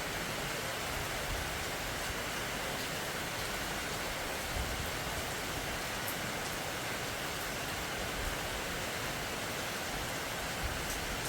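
Steady rain falling, an even hiss with the occasional faint tick of a drop.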